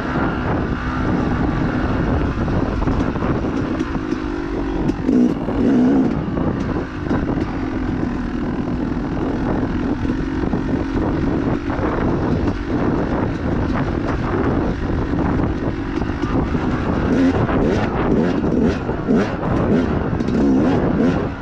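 Dirt bike engine running hard, its pitch rising and falling as the throttle is worked, with short clattering knocks that come more often in the last few seconds.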